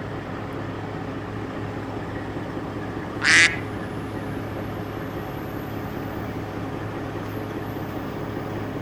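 Telehandler's diesel engine running steadily while lifting a load. A brief, sharp, high squawk-like sound cuts through about three seconds in.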